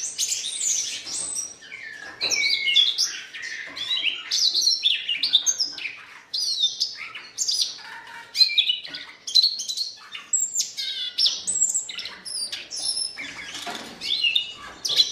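Siberian rubythroat singing: a long, varied warbling song of quick phrases, with rapid slurred notes and trills strung together with only brief pauses.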